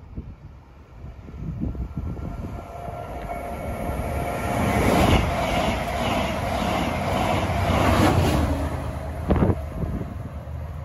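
TransPennine Express passenger train approaching and running past the platform: its noise builds over the first few seconds and stays loud, with a steady tone through the middle. A sharp knock comes about nine seconds in.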